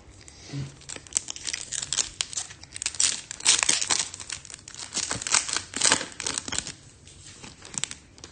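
Foil wrapper of a Topps Chrome trading card pack being torn open and crinkled by hand: a dense run of crackles that dies away about seven seconds in.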